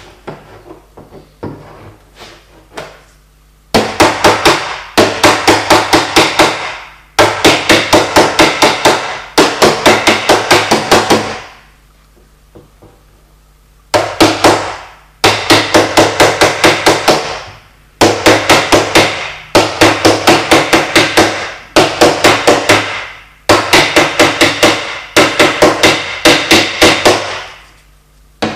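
Light hammer tapping on car body sheet metal during paintless dent repair, as high spots are knocked down. The quick taps come in runs of about five a second, separated by short pauses, with a longer break about twelve seconds in.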